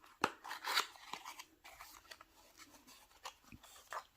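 Light clicks and soft rustling as a glass ink bottle and its gift-style packaging are handled, with a few sharp taps about a quarter second in, near the one-second mark, and again near the end.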